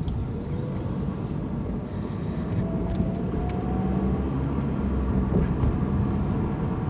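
Car driving along a rough road, heard from inside the cabin: a steady low rumble of tyres and engine, with a faint tone rising in pitch over a few seconds.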